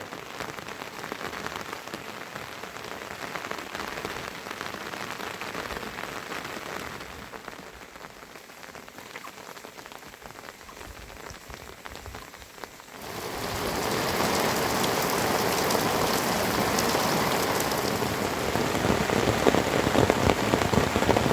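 Rain falling steadily, a dense patter of drops on surfaces. About two-thirds of the way through it becomes suddenly much louder and stays that way.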